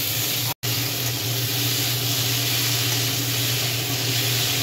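Diced potatoes sizzling in hot oil in a kadai, a steady hiss with a low hum underneath. The sound drops out for a moment about half a second in.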